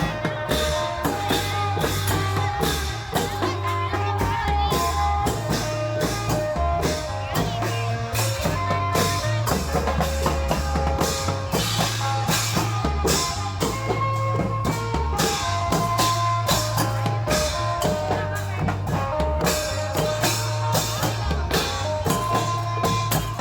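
Isan klong yao long-drum band playing a fast, driving rhythm, with dense drum strokes over steady low bass notes and a held melody line.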